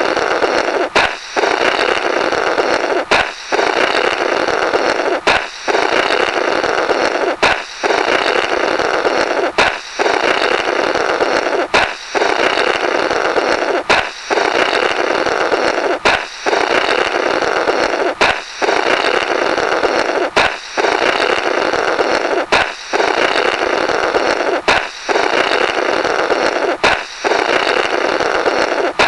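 Comic 'Blorrrt' balloon sound effect looping over and over: a sharp balloon pop, then a long buzzy, flapping raspberry of air blown through the burst rubber. It repeats about every two seconds.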